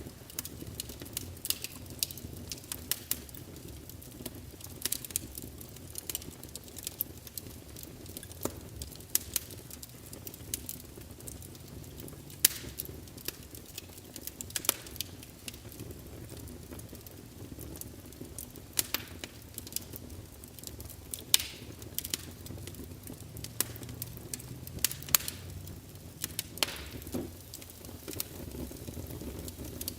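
Wood fire burning in a fireplace: burning logs crackling, with irregular sharp pops over a steady low rumble and hiss of the flames.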